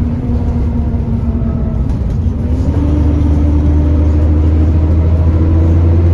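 Alexander Dennis Enviro400 double-decker bus engine running under load, its note rising in pitch about two seconds in as the bus picks up speed, then holding steady.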